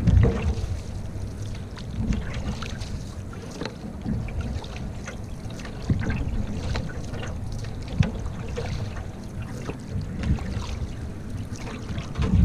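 Canoe being paddled: repeated paddle strokes in the water with small knocks against the hull, one sharper knock about eight seconds in, over wind rumbling on the microphone.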